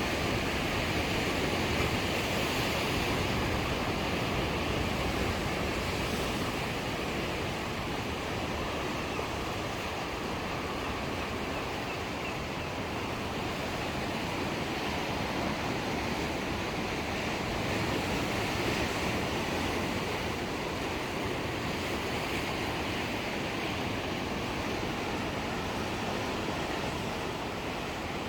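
Ocean waves breaking and washing on the shore in a continuous surf, swelling and easing slowly, with some wind on the microphone.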